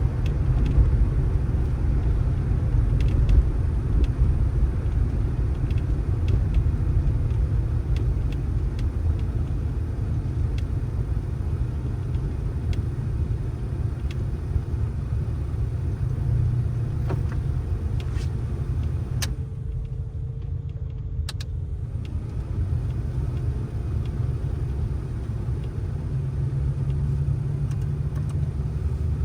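A motor vehicle's steady low rumble, with faint clicks now and then; the higher part of the sound drops away briefly about twenty seconds in.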